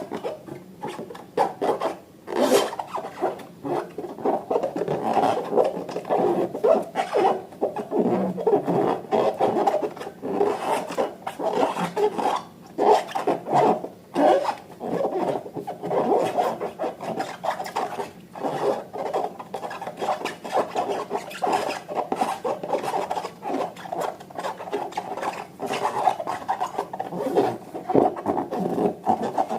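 Slime being kneaded and stretched by hand: continuous sticky squishing and rubbing, crackling with many small clicks.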